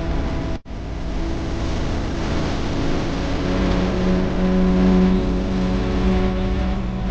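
Mahindra Yuvo Tech Plus 405 DI tractor's three-cylinder diesel engine running steadily, cut off for a split second a little over half a second in. From about halfway its hum grows stronger, loudest around five seconds in.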